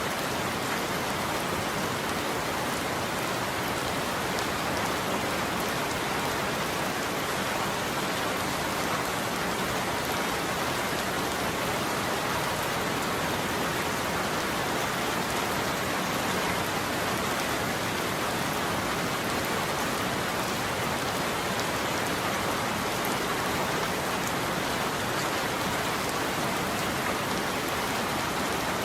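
Heavy rain falling steadily on a roof: an even, unbroken hiss of drops with no thunderclaps.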